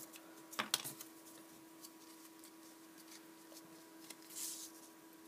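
Cardboard pieces being handled and threaded onto a shoelace: a few light clicks and rustles in the first second, a soft rustle a little past four seconds, over a faint steady hum.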